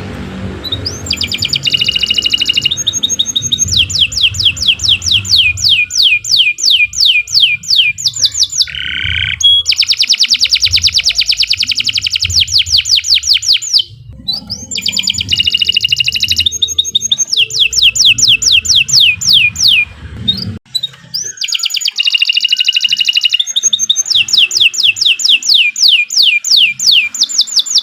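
Domestic canary singing a long song of fast trills: rolls of sharp, quickly repeated falling notes, phrase after phrase with short breaks. A faint low rumble sits under the song until about two-thirds of the way through.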